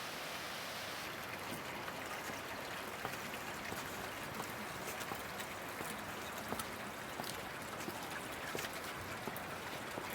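The Virgin River rushing past, a steady wash of water noise from a river running high and fast with runoff.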